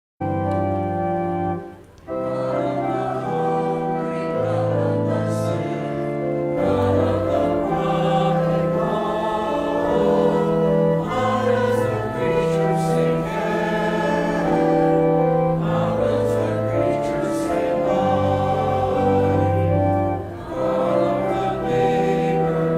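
Slow church music in long held chords, sung by a choir, starting abruptly and briefly dipping about two seconds in.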